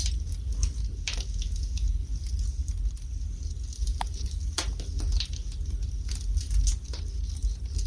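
Wood fire burning in a fireplace: irregular crackles and sharp pops of burning wood over a steady low rumble.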